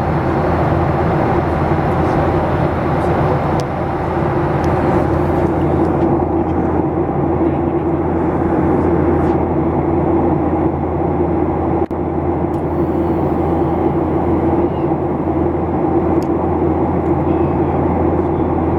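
Boeing 737-800 cabin noise in flight: a steady drone of the CFM56-7B turbofans and rushing airflow, with a low hum underneath. The hiss in it thins out about six seconds in.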